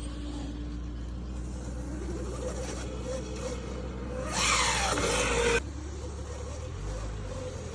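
Small off-road engine running with its pitch wavering up and down, then a louder stretch of revving with rushing noise about four seconds in that cuts off suddenly.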